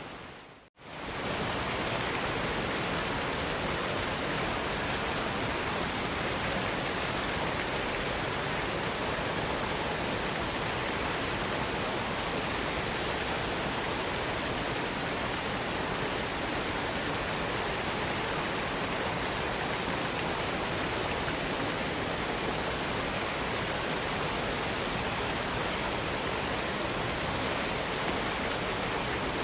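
Waterfall rushing: steady, even noise of falling water. Under a second in it briefly fades out to near silence and comes straight back.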